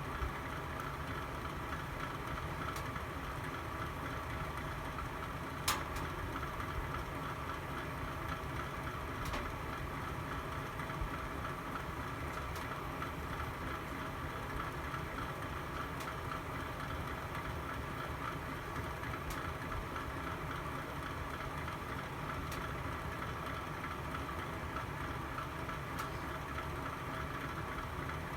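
Wood fire burning in a fireplace: a steady low rush of flame with scattered faint crackles and one sharper pop about six seconds in.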